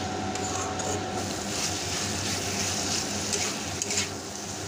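Pigeon meat and potatoes in spice paste sizzling in a metal kadai while a steel spatula stirs them, with a steady frying hiss and a few clicks of the spatula against the pan near the end.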